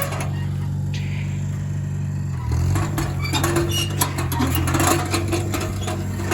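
Small tractor engine running steady. About two and a half seconds in, its pitch dips briefly as it takes up a load, then recovers. Clicks and rattles follow.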